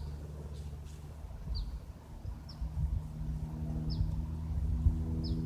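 A Cessna light aircraft's piston engine and propeller droning in the distance as a steady hum that grows fuller and louder about halfway through. A small bird gives four short, high chirps over it.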